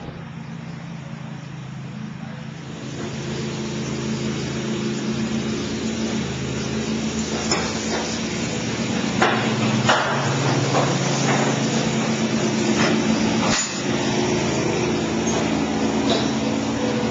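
A steady low machine hum that grows louder over the first few seconds, broken by a few sharp knocks.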